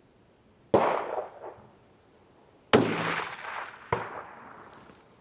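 Two rifle shots about two seconds apart, each ringing out after the crack, the second the louder. About a second after the second shot comes a shorter, sharp crack, the timing of a bullet striking a steel target at 300 yards.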